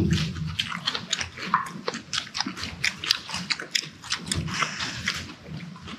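Close-up eating sounds: a person chewing with irregular wet clicks and smacks of the mouth.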